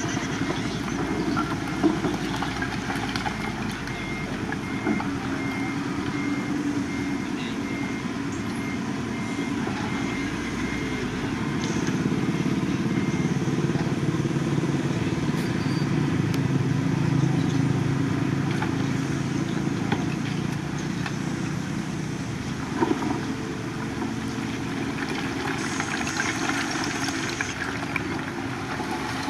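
Diesel engines of heavy earthmoving machinery running steadily, growing louder through the middle of the stretch. A faint, evenly repeated beep sounds over the first dozen seconds.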